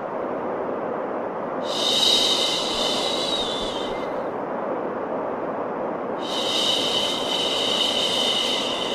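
Steady white noise for baby sleep, a constant even hiss. A higher hissing layer comes in twice: once for about two seconds near the start, and again from about six seconds in until the end.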